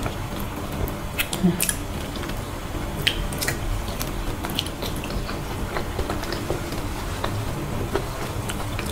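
A person chewing soft, creamy durian flesh, with wet mouth clicks and smacks scattered throughout.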